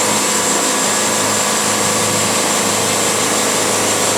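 Wood-Mizer LT70 band sawmill running steadily, a constant machine hum with a dense, even noise over it.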